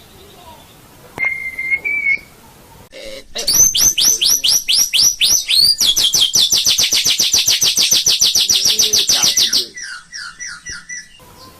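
White-rumped shama (murai batu) singing: a short whistled note, then a fast run of down-slurred notes that speeds into a loud rapid trill lasting several seconds, ending with a few softer notes.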